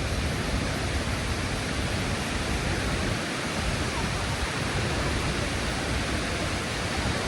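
Steady rushing roar of a large waterfall, with the falling water filling every pitch from low to high.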